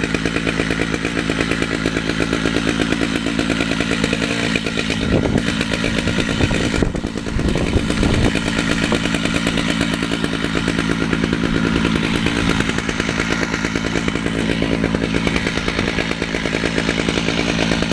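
Two-stroke chainsaw running steadily at high speed, ripping a red oak log lengthwise on a chainsaw mill. The sound wavers briefly about five to eight seconds in.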